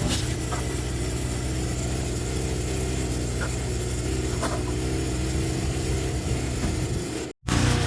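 Small petrol engine of yard equipment running steadily at a constant speed. The sound cuts out completely for a split second near the end.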